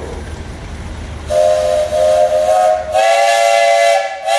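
Steam whistle on an Advance 20-60 hp steam traction engine blowing. It starts about a second in with a steady multi-tone blast, breaks briefly, then comes back louder for a second blast.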